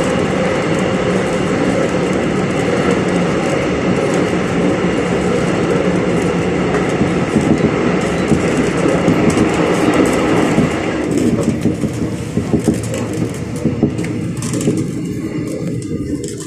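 Electric multiple unit with a Toshiba IGBT inverter running along the track, a steady hum of traction motors and rail noise with a few held tones. About two-thirds of the way in the hiss drops away and sharp clicks from the wheels start.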